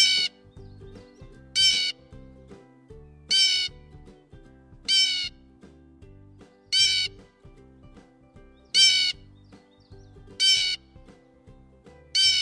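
Blue jay giving its harsh "jay" call eight times, about once every second and a half to two seconds, over quiet background music.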